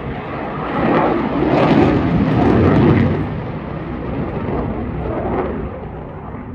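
Eurofighter Typhoon's twin jet engines roaring on a display pass, a deep rumble that swells to its loudest about two to three seconds in and then slowly fades as the jet pulls away.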